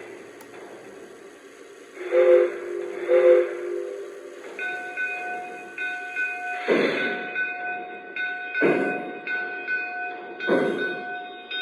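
O scale model steam locomotive's sound system giving two short whistle toots, the signal to release brakes and proceed. A steady ringing tone follows, then slow, heavy exhaust chuffs about two seconds apart as the locomotive starts to move.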